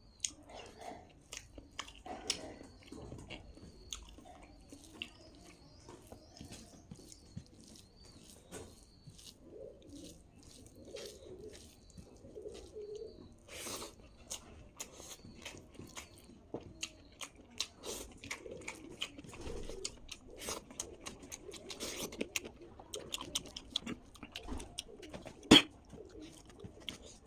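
Close-miked chewing and mouth sounds of a person eating: a steady run of small wet clicks and smacks, with one sharper, louder click near the end.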